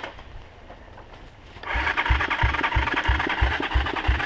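Electric starter cranking the Irbis TTR 250's single-cylinder engine, starting about one and a half seconds in, with a rhythmic pulse about three times a second. The engine does not catch; it has been flooded with water and its air box is full.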